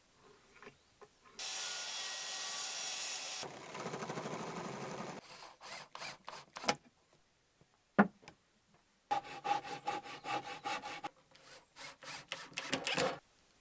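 A string of short woodworking sounds, each cut off abruptly: a steady tool hiss for about two seconds, then sawing and rubbing on wood, a single sharp knock about eight seconds in, and quick repeated saw or rasp strokes near the end.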